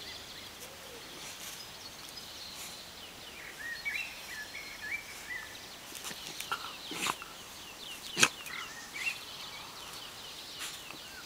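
Small songbirds chirping in short, bending phrases against a steady outdoor hiss, with a sharp click a little after seven seconds in and a louder knock about a second later.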